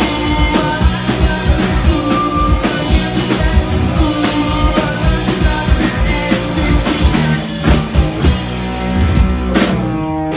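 A rock band playing live, with drum kit, guitars and voice together in a loud, steady groove.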